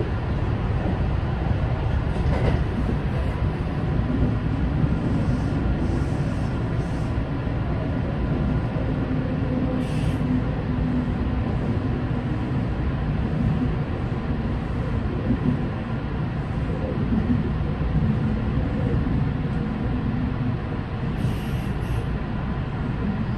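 Kintetsu 9020 series electric train running and slowing, heard from the front of the car through the cab windows: a steady rumble of wheels on rails. Two brief higher-pitched noises come through, about ten seconds in and again near the end.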